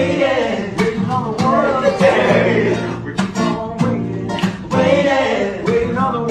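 Acoustic guitar strummed in a steady rhythm with a voice singing a melody over it.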